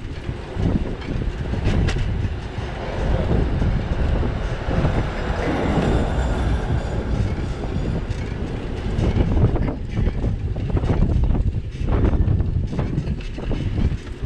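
Bicycle rattling over a rough, bumpy street with a string of knocks and clatters, under steady wind noise on the bike-mounted camera's microphone. The clatter is densest in the last few seconds.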